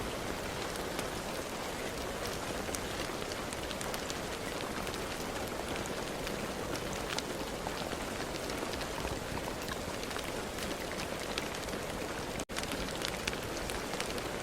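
Steady rain falling, a dense even hiss with many individual drops ticking through it. About twelve seconds in, the sound cuts out for a split second and comes straight back, like a join in the recording.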